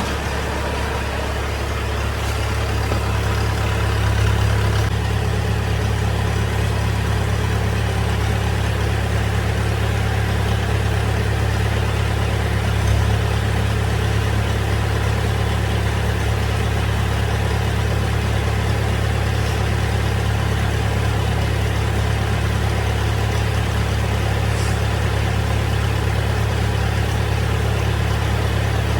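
A machine running steadily with an even low drone that holds the same pitch throughout, picking up slightly a few seconds in.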